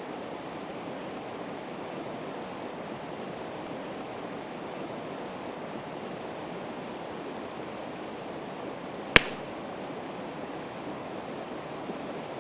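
A river rushes steadily behind a campfire of split evergreen wood. One sharp, loud pop comes from the burning wood about nine seconds in. A faint high chirp repeats about twice a second for several seconds before that.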